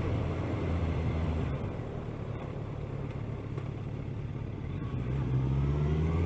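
Kawasaki ER-6n's parallel-twin engine running on the move under wind noise. It eases off for a few seconds, then rises steadily in pitch near the end as the bike accelerates.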